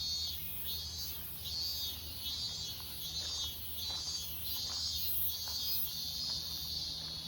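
Insects buzzing in a regular pulsing rhythm, about one high-pitched pulse every 0.7 seconds, over a low steady hum.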